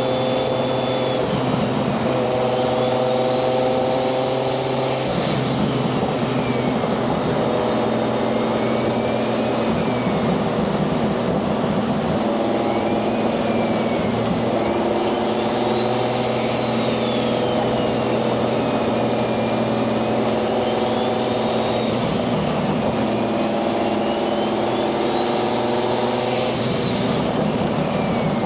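Turbocharged 1JZ-GTE VVT-i inline-six in a Nissan 240SX running on the road. The turbo whistle rises as the engine pulls and falls away as the throttle eases, several times over, and drops off suddenly about five seconds in and again near the end.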